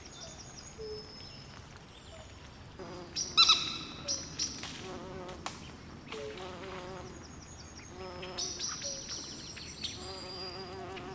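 Swamp chorus of frogs and insects at night: many overlapping short high chirps and repeated warbling trills, with one sharp, louder call about three and a half seconds in.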